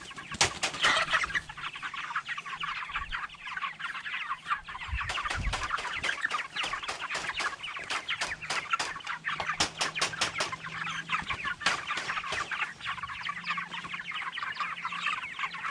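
A flock of five-week-old broiler chickens peeping and clucking, many short calls overlapping without a break.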